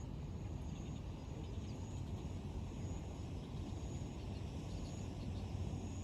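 Bicycle riding on a dirt track: a steady low rumble of tyres and wind on the microphone, with a faint high chirp repeating about once a second.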